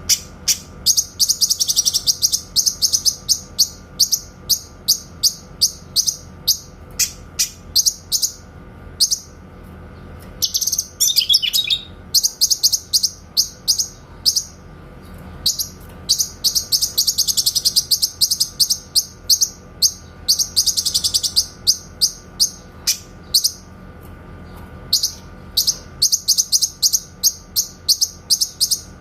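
Cucak kinoy songbird calling in a long series of sharp, clear 'shot' notes at several per second, broken by dense rapid trills and one falling run.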